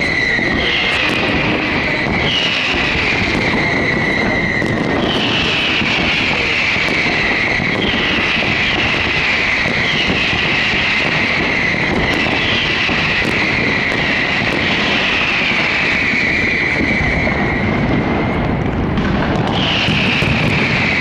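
Fireworks display: high whistling fireworks go up one after another, about every second, each whistle sliding down in pitch and then holding, over a steady dense rumble of bursts and crackling.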